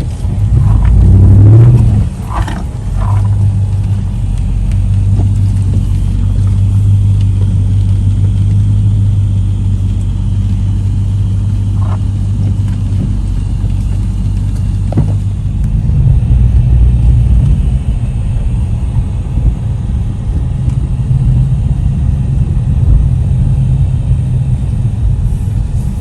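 Steady low rumble of a car on the move, with a droning hum that shifts a little about halfway through.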